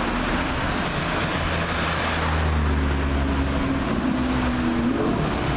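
Ferrari 458 Italia's 4.5-litre V8 running at low revs, with a short rise in pitch near the end.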